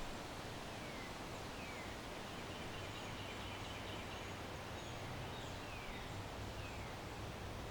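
Backyard ambience: a steady hiss of wind through trees and leaves, with a few faint, short falling bird chirps. A low hum comes in a few seconds in.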